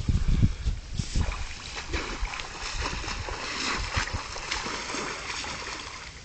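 Water splashing and sloshing as a dog and a man swim, with a low rumble in the first second.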